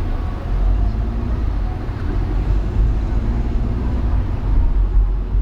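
Steady low rumble of city traffic and road noise heard from a car driving through town.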